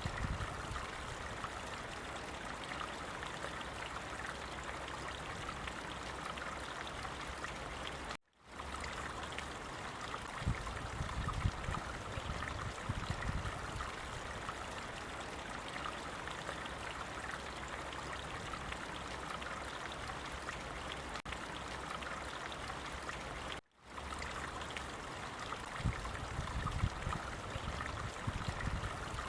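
Water of a stream running and babbling steadily, with gusts of low rumble; the sound cuts out for an instant twice, at about 8 seconds and near 24 seconds.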